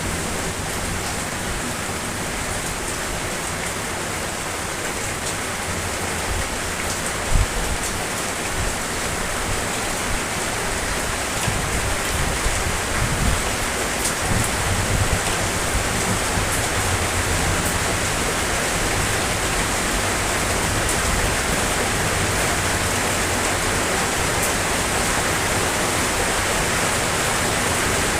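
Steady rain falling, an even hiss with faint patters of drops and a brief louder knock about seven seconds in.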